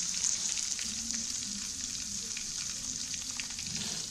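Chicken pieces frying in hot oil in an aluminium pot: a steady sizzle with small scattered crackles.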